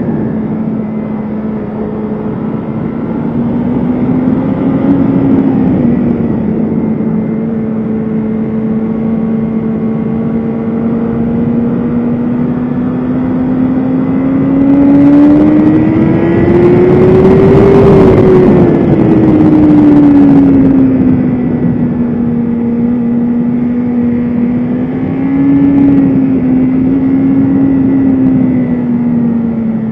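BMW S1000RR inline-four sport bike engine running under way at fairly steady revs. The revs climb smoothly to a peak a little past the middle and ease back down, with wind rush underneath.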